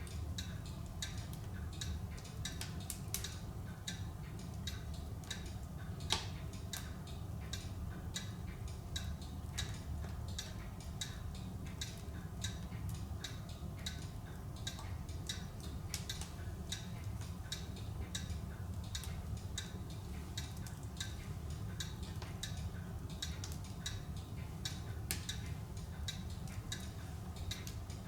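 Larch logs burning in a wood stove, crackling and popping irregularly, with one louder pop about six seconds in, over a steady low rumble.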